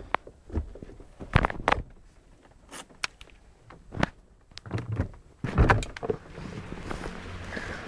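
Several sharp clicks and thunks, then an Audi's engine starts on a cold start about five and a half seconds in and settles into a steady idle.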